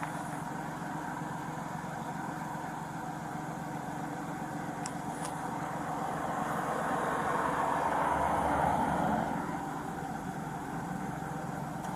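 Motor vehicle engine idling steadily, with road noise swelling and fading about halfway through, as of another vehicle passing.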